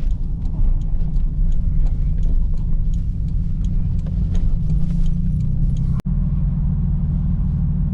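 Toyota Supra Mk4's inline-six engine and road noise as the car drives, a steady low drone. The sound drops out sharply for an instant about six seconds in.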